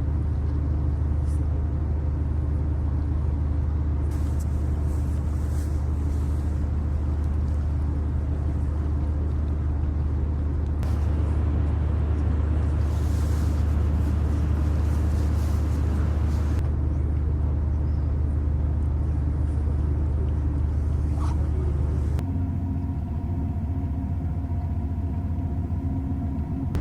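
A steady low engine rumble with a hum, changing abruptly several times as if spliced from different recordings.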